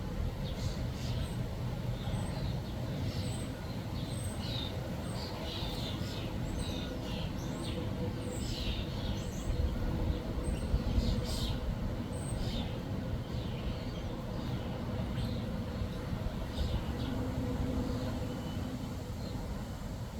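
Several small birds chirping and calling in quick, scattered notes, over a steady low rumble.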